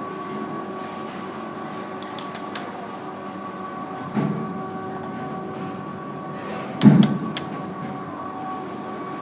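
KDK 56-inch industrial ceiling fan running with a steady whine, the fan wobbling, probably from a bent blade. Two short thumps cut through it, about four seconds in and, loudest, about seven seconds in, with a few small clicks.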